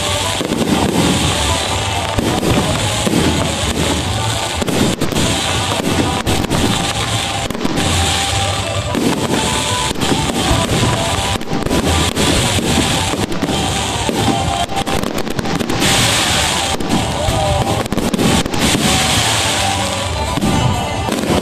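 Fireworks display: aerial shells bursting one after another with many bangs and crackles, over music playing along.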